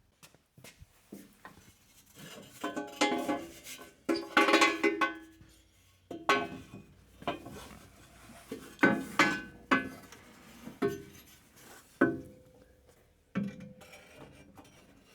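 Steel exhaust headers clanking and ringing as they are worked loose and pulled out of the engine bay. There are a series of irregular metal knocks, the loudest around a third of the way in and again past the middle, each with a ringing tail.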